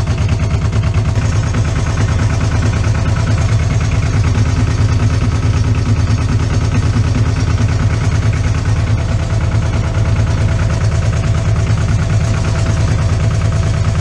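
Yanmar 240D tractor's diesel engine running steadily with the hand throttle raised, freshly started after a battery boost.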